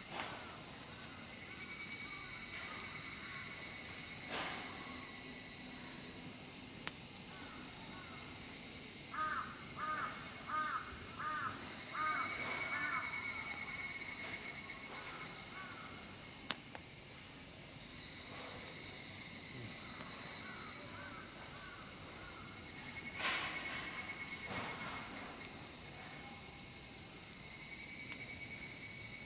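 Steady, high-pitched chorus of summer insects, with a crow cawing in a run of calls near the middle and again briefly at the end. A few sharp cracks from the burning campfire wood.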